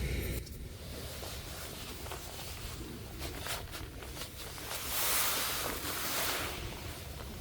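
Seaside ambience: wind rumbling on the microphone over the sound of the sea, with a rush of noise that swells about five seconds in and fades a second or so later.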